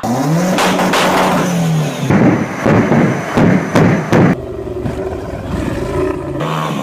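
A vehicle engine revving: its pitch rises and falls, then a quick run of sharp revs or blips, then it settles to a steadier run.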